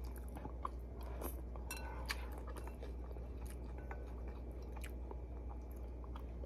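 A person chewing food close to the microphone, with scattered short wet clicks and smacks, over a steady low hum.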